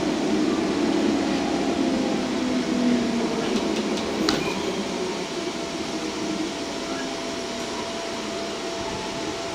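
JR Central 211 series electric train pulling out of a station, heard inside the driver's cab: a steady running noise of motors and wheels on rail, with a sharp click about four seconds in.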